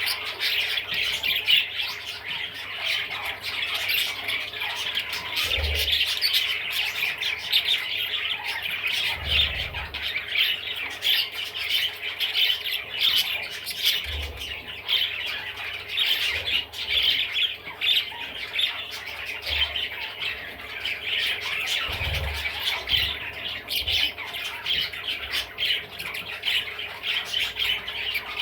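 Budgerigar chattering and warbling without a break, a dense stream of squawky, scratchy notes with many short clicks, and a few low thumps along the way.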